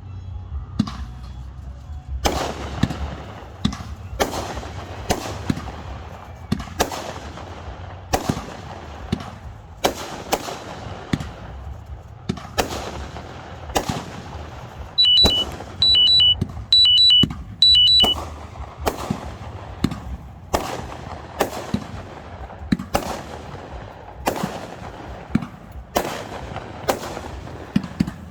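Fireworks bursting in a steady run of loud bangs, roughly one a second, each with an echoing tail. About halfway through, an electronic alarm beeps in four quick two-tone groups over the bangs.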